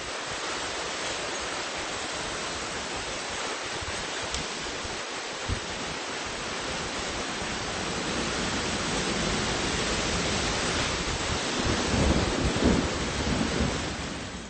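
Thunderstorm wind, a steady rushing hiss that builds over the last several seconds, with gusts buffeting the microphone near the end before it cuts off suddenly.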